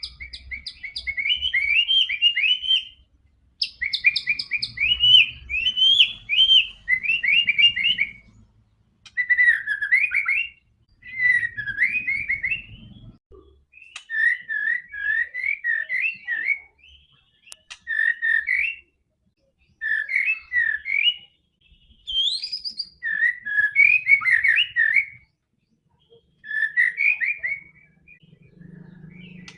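White-rumped shama singing: a series of rich, varied whistled phrases, one to two seconds each, separated by brief pauses, with quick repeated notes in the opening phrases.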